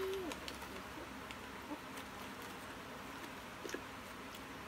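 Faint, scattered crunches and clicks of flavoured almonds being chewed, with a brief hummed "mm" at the start.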